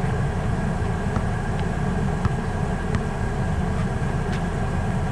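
Steady low rumble of an idling car engine, with a few faint ticks scattered through it.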